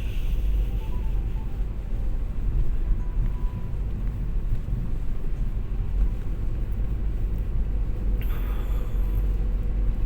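Steady low road rumble of a car heard from inside the cabin while driving, tyre and engine noise together, with a brief hiss about eight seconds in.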